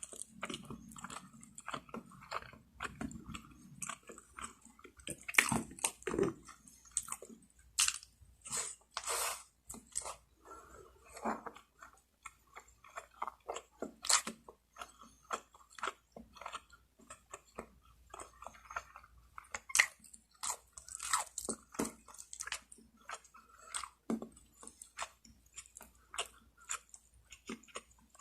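Close-up eating sounds: someone biting and chewing roast chicken with crispy skin, wet chewing broken by many irregular crunchy crackles.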